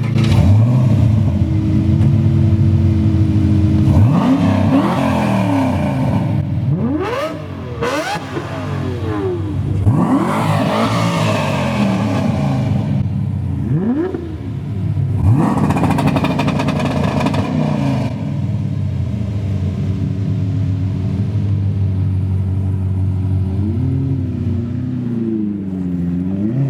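A car engine idling and being revved hard several times, each rev sweeping up in pitch and falling back to idle, with a wavering rise and fall near the end.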